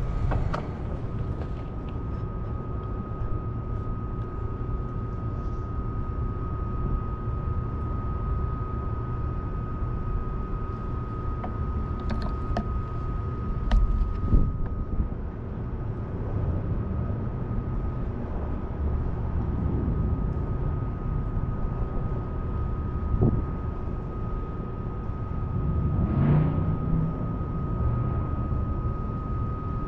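Street noise heard while riding a bicycle through a city: a steady low rumble of traffic and air movement, with a thin steady tone running through it. A few brief sharper noises come around the middle and near the end.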